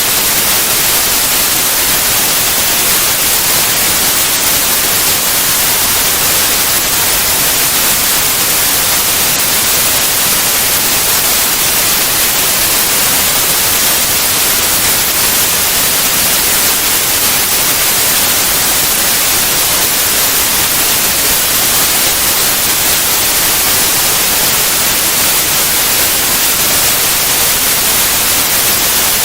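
Steady white noise: an even, unbroken hiss across all pitches, strongest in the highs, with no rises or dips.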